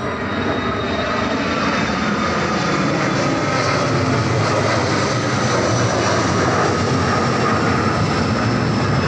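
Airplane passing low overhead: the loud, steady roar of its engines, with a thin high whine on top.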